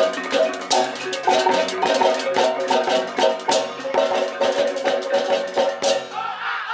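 Balinese gamelan music: bronze-keyed metallophones struck in fast, interlocking repeated patterns, with cymbal clashes and drums.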